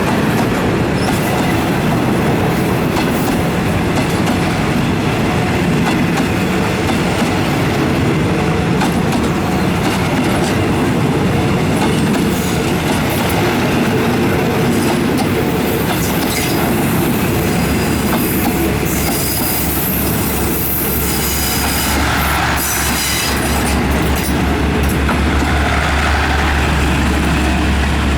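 Passenger train pulling out of the station, its coaches rolling past with wheels clacking over rail joints and squealing, the squeal strongest in the latter half.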